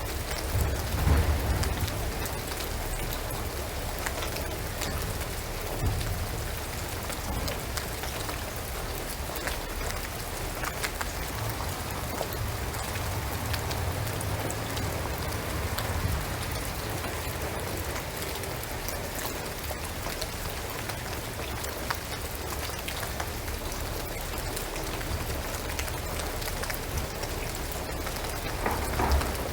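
Steady rain falling on a shingled roof and pine trees, an even patter with many separate drips. A low rumble swells briefly about a second in and again near the end.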